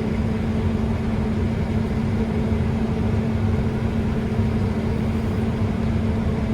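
Steady drone of a combine heard from inside its cab: engine and machinery running at constant speed, with a steady hum over a low rumble.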